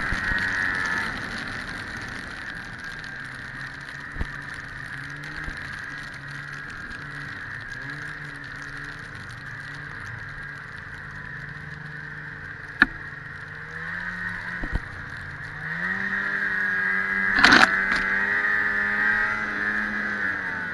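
1997 Ski-Doo MXZ 670 snowmobile's two-stroke three-cylinder engine running under changing throttle. It is loud at first, eases back after about a second and cruises lower, then pulls harder from about fifteen seconds in until just before the end. A sharp click comes about thirteen seconds in and a louder knock partway through the last pull.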